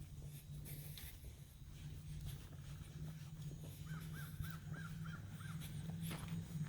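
A bird gives a quick run of six short, arched calls about four seconds in, over a steady low hum.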